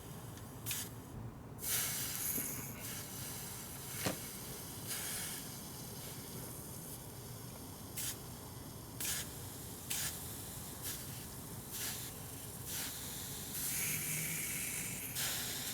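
Hissing in short bursts every few seconds, with a faint steady hiss between them and one sharp click, while a freshly soldered fuel strainer is being cooled.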